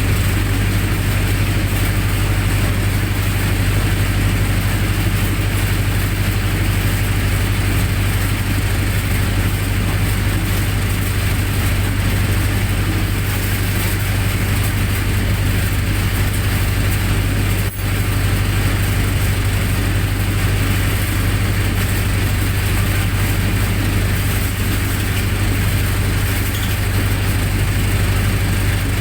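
Generator set engine running steadily at constant speed, with a brief dropout about eighteen seconds in.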